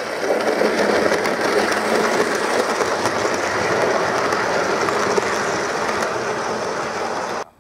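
Train running along the track, a steady rumble with rapid clicking of wheels over rail joints. It stops abruptly near the end.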